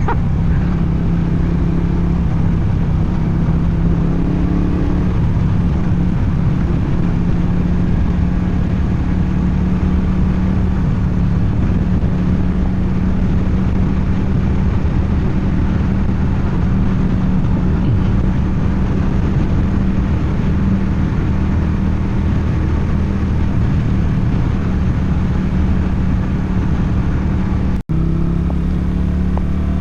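Motorcycle engine and exhaust running at a steady pitch while cruising, with road and wind noise. The sound cuts out for an instant near the end.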